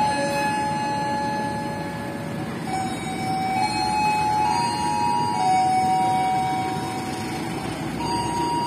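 Passenger train carriages rolling slowly past with a low rumble and a steady wheel squeal that shifts between several pitches, one tone taking over from another every second or two.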